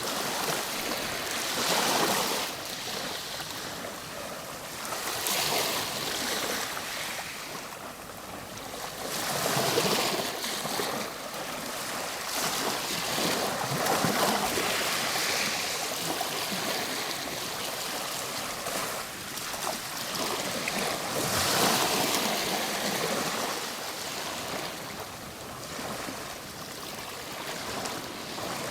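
Ocean waves breaking and washing on a shore, a steady rushing surf that swells every few seconds as each wave comes in.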